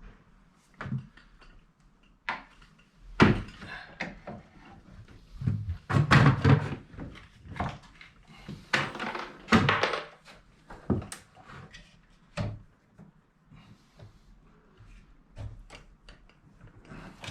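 Window frames being handled and fitted during installation: a series of irregular knocks and thuds, with longer rubbing or scraping noises about six and nine seconds in.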